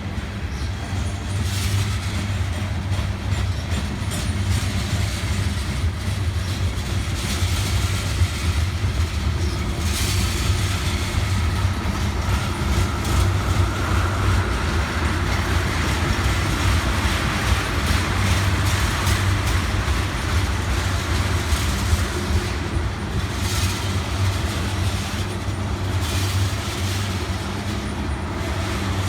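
Freight train cars rolling past, a steady rumble with the clickety-clack of wheels over rail joints and a faint high wheel squeal near the middle.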